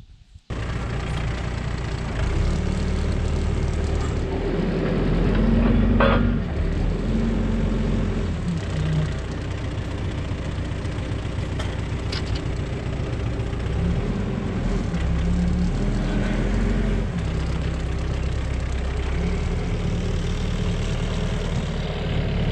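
Tractor engine running steadily, starting abruptly about half a second in, with its low pitch shifting now and then as the load or speed changes.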